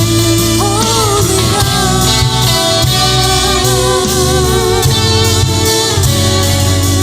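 Worship band playing a Christian song, guitars and bass under a vocal line that comes in about a second in.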